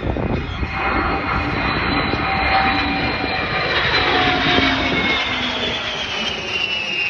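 Aircraft making a loud low flypast, its engine noise swelling and its whine sliding down in pitch as it passes.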